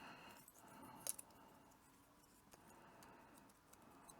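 Near silence with faint clicks of small plastic model-kit parts being handled, the clearest about a second in.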